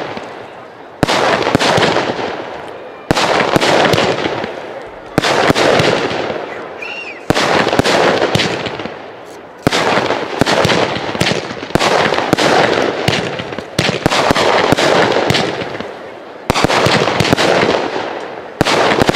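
Fireworks display: firework shells bursting one after another, a sharp bang every second or two, each trailing off in a long crackling tail.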